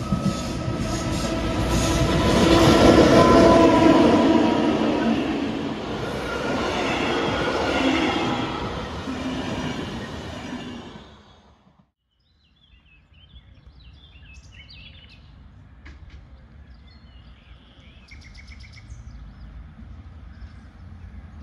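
Electric InterCity train hauled by two MÁV class V43 'Szili' electric locomotives going by, a loud rumble of wheels on rail with a steady hum in it, loudest about three seconds in and then fading. It cuts off abruptly about twelve seconds in. After that comes quiet open-air ambience with scattered bird chirps.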